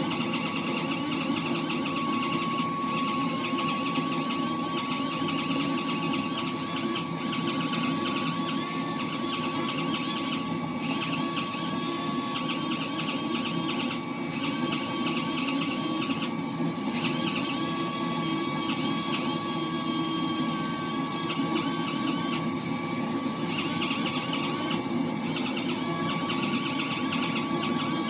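Power sander with a hard backing pad and 180-grit disc sanding the paint of a car bonnet, running steadily with a high whine, over the hum of a dust extractor.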